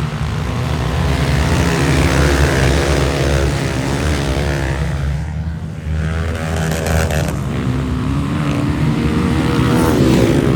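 Motocross motorcycle engine revving hard, its pitch rising and falling with the throttle, easing off for a moment about halfway through and then pulling again.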